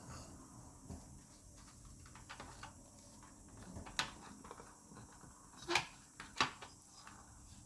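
Faint scattered clicks and taps of small parts being handled during the teardown of a projector, with three sharper clicks about four, six and six and a half seconds in.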